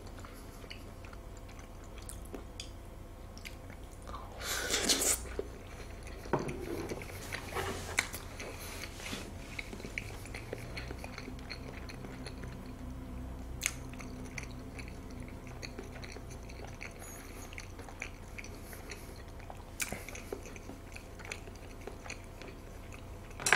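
Chewing a mouthful of raw salmon wrapped around beef tartare: soft, wet chewing with many small scattered clicks, and one louder, brief noise about five seconds in.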